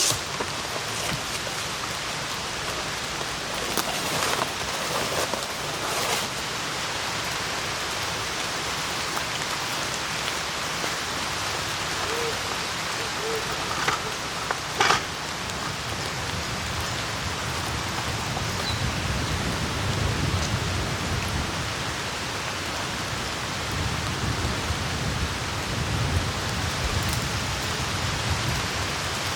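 Steady rain, an even hiss with a few louder single drops, and a low rumble swelling in the second half.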